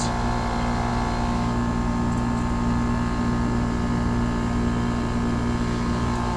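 5-ton 2001 Trane XE1000 Weathertron heat pump outdoor unit running in heat mode: its compressor and outdoor fan give a steady, even hum with a low tone.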